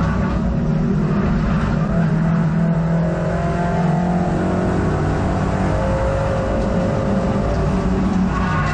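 Hot hatch race car's engine running hard under racing load, heard from inside the cabin, its note rising and falling a little with revs.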